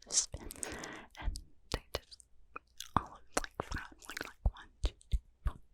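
Close-miked ASMR mouth sounds: irregular wet clicks and smacks, with a breathy, unintelligible whisper near the start.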